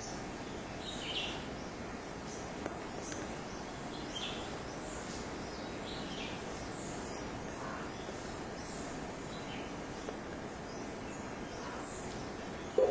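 Birds chirping now and then, short high calls scattered over a steady background hiss, with a brief knock right at the end.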